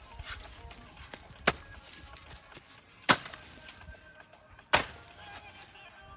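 Hand hoe chopping into soil in slow, even strokes: three sharp strikes about a second and a half apart, with another starting right at the end.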